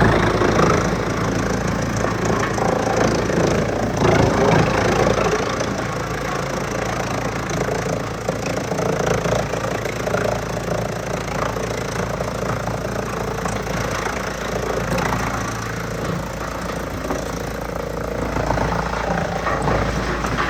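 Wood chipper running steadily with wood crackling and splintering as it is fed through and chipped, busiest near the start and about four seconds in.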